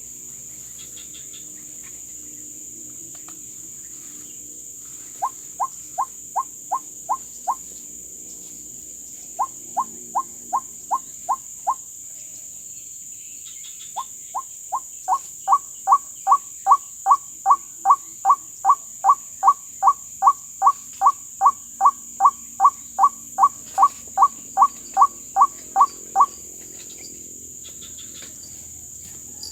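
White-breasted waterhen calling: a series of identical short rising notes, about three a second, in three bouts, the last one the longest. A steady high insect chorus runs underneath.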